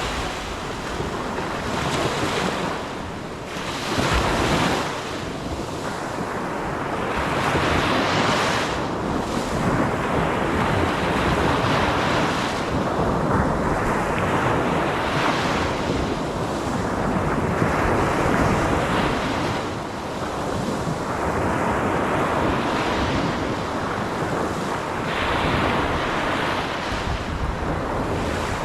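Ocean surf, waves breaking and washing in a slow swell every few seconds, with wind buffeting the microphone.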